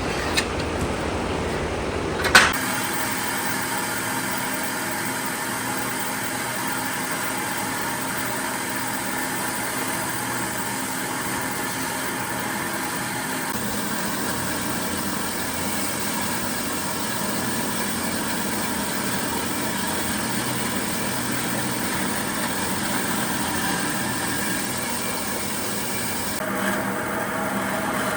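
A motor running steadily, with a sharp snap about two seconds in.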